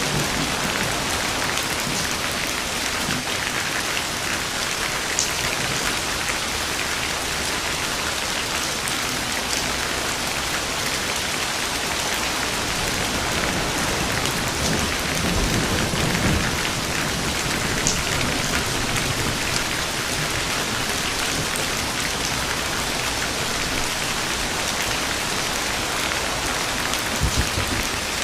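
Steady, dense rain falling on a surface, with a low roll of thunder swelling about halfway through and again briefly near the end.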